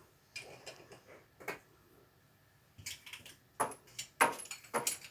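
Irregular metallic clinks and knocks of tools against water heater fittings, in small clusters with a quiet gap of about a second in the middle.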